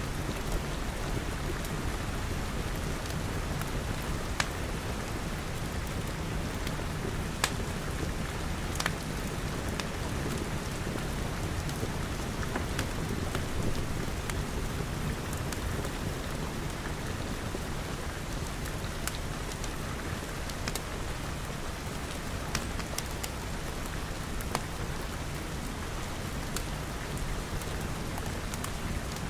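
Steady rain pattering, as on glass walls and roof, with scattered sharp pops from a crackling fireplace.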